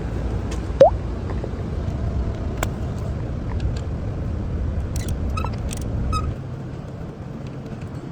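Car engine running with a steady low rumble that drops a little after six seconds. A short rising squeak comes about a second in, and a few light clicks follow later.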